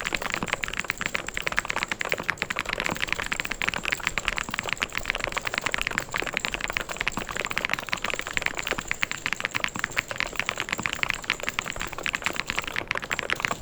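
Fast, continuous typing on a mechanical keyboard: a dense run of key clicks and clacks with no pauses.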